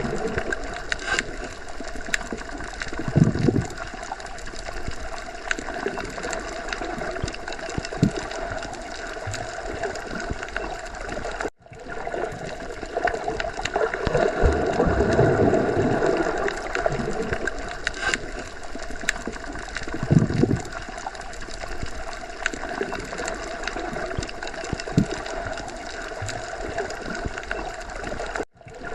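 Underwater ocean ambience: a steady wash of muffled water noise with slow, low gurgling swells and scattered small clicks. The sound drops out briefly twice, about eleven seconds in and near the end.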